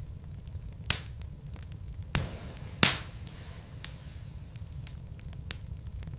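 Wood fire burning in a fireplace: a steady low rumble of flames with scattered crackles and three louder pops from the burning logs about a second, two seconds and three seconds in.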